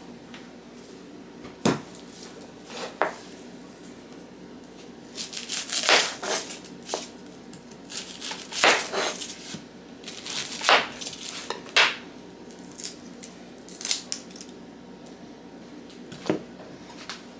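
Kitchen cookware and utensils clinking and knocking as they are handled and set down. The knocks come singly at first, bunch into busier stretches in the middle, then thin out to scattered clicks.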